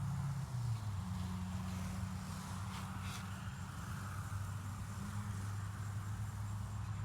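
A steady low hum that steps slightly in pitch a few times, with a faint hiss in the middle.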